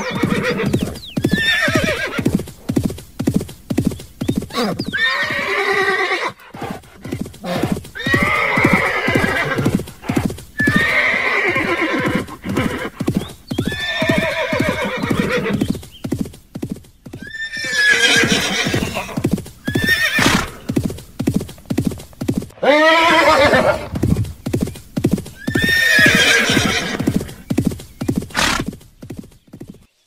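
Horses neighing again and again, long wavering whinnies every few seconds, over the steady clip-clop of hooves.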